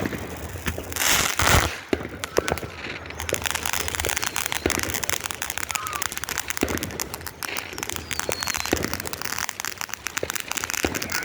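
Consumer fireworks going off: a loud rush about a second in, then dense rapid crackling with scattered louder pops, and a brief falling whistle later on.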